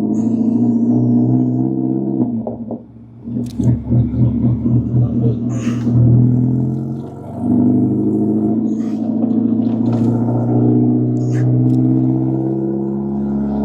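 Mercedes-AMG CLS 63 S twin-turbo V8 running at steady revs. About three seconds in, the engine drops off and then pulses unevenly as the throttle is blipped, rising to its loudest point near six seconds. After a brief dip it settles back to a steady tone.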